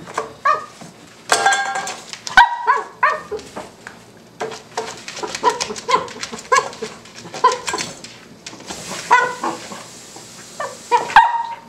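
A Cavalier King Charles Spaniel puppy barking over and over in short yaps, coming in quick runs of two or three with brief pauses between.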